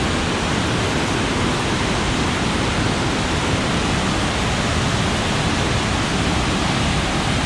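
Waterfall rushing: a steady, loud wash of falling water with no letup.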